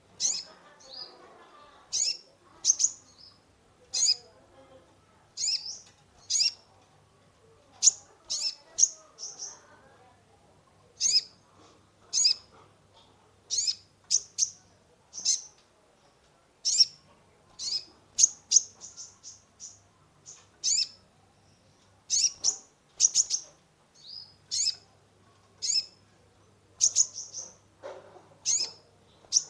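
Kolibri ninja sunbird singing constantly: short, sharp, high chirps about once or twice a second, some run together into brief trills. It is a lure recording of a bird in full, varied song, meant to set caged birds singing.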